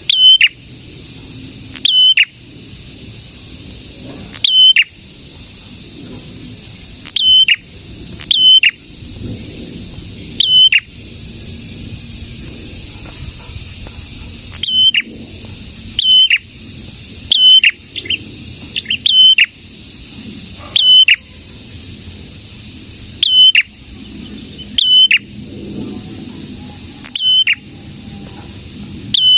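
Prenjak calling: short, loud, sharp notes repeated every one to two seconds. Each is a brief high note that drops in a steep downward sweep, and some come in quick pairs.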